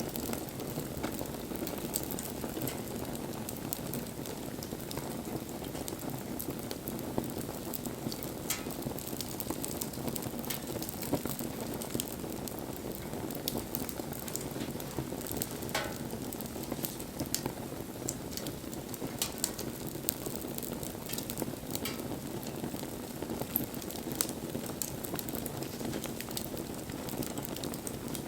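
Campfire burning: a steady low noise from the flames with scattered sharp crackles and pops of burning fuel.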